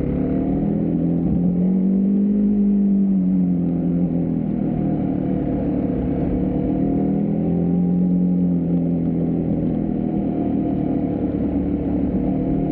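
Husqvarna Svartpilen 401's single-cylinder engine running on the move, its note rising and easing as the throttle opens and closes, with a low rumble underneath.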